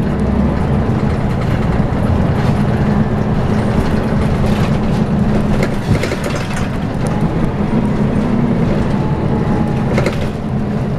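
Scania L94UB bus running, its five-cylinder diesel engine droning steadily, with rattles from the body and a few sharp clicks about six and ten seconds in.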